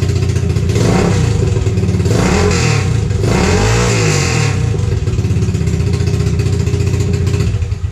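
Single-cylinder four-stroke engine of a CT70-clone pit bike running through a Trail Buddy Thumper exhaust in a garage: idling, blipped three times (about one, two-and-a-half and four seconds in), then idling steadily before it is shut off near the end.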